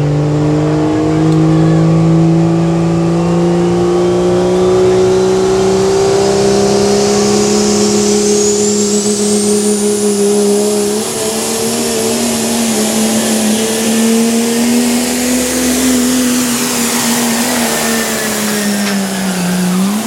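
Modified pulling truck's engine running flat out under load down the pull track, its pitch climbing slowly as it goes, with a high whine rising alongside it and holding. Near the end the engine and whine fall away as the truck comes off the power.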